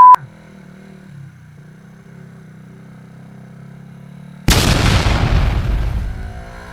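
Motorcycle engine idling quietly with a steady low hum, then about four and a half seconds in a sudden loud boom, like an explosion, that dies away over about two seconds.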